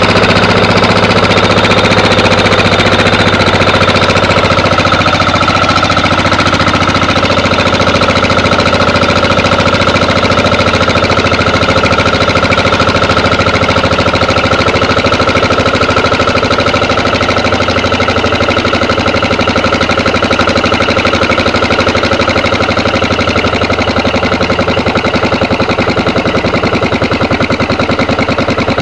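Yanmar 9 hp single-cylinder air-cooled diesel engine idling with a steady, even firing rhythm, running smoothly at a low idle.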